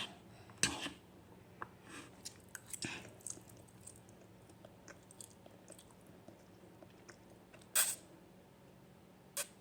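A person chewing spicy Buldak noodles close to the microphone. There is a sharp click just under a second in, then a run of small wet crackles and ticks. Two short, louder noises come near the end.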